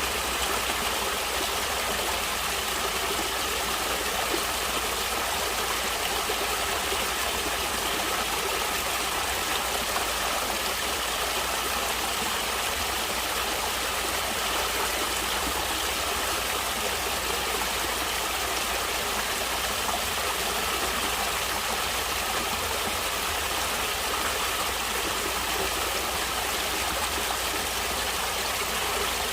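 Natural stream water flowing steadily, an even rushing with no breaks.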